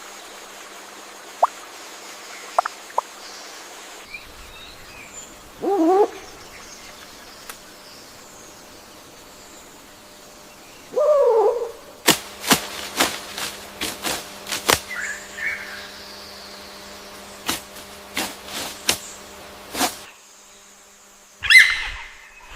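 Wild birds calling: a few short chirps, then a low wavering call about six seconds in and another about eleven seconds in, a run of sharp clicks, and a higher call near the end.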